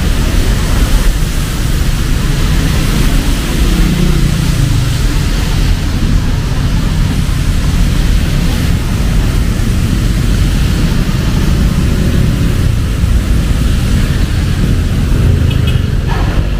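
Heavy rain falling steadily, with road traffic running underneath.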